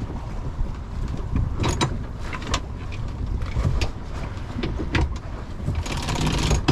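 Genoa sheet being hauled in on a sailboat's deck hardware in strong wind: rope running through blocks with a few sharp clicks, over a steady low wind rumble on the microphone, and a rising hiss near the end.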